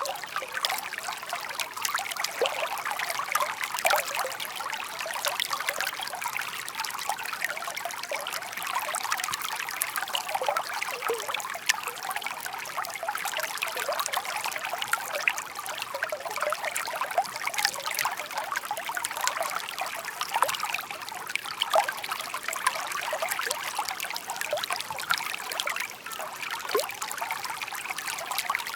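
Shallow stream babbling steadily over stones, a continuous trickling and splashing with many small bright splashes.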